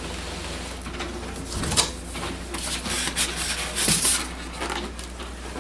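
Styrofoam packing being pulled out of a cardboard printer box: scraping and rustling, with a couple of sharper knocks, about two seconds in and about four seconds in.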